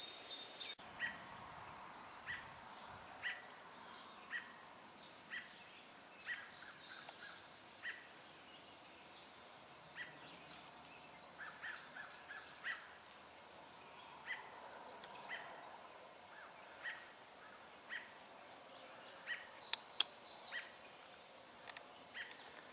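Woodland birds calling: a short chirp repeated about once a second, with a brief high trill twice, about six seconds in and near the end, over faint outdoor background hiss.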